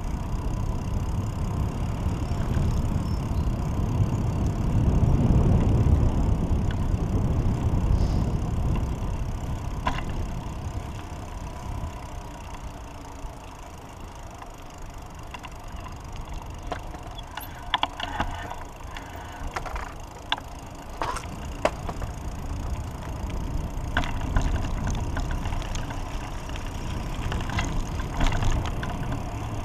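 Outdoor sound of a bicycle ride: a low rumble swells about five seconds in and fades by about twelve seconds. Scattered sharp clicks and rattles follow through the second half.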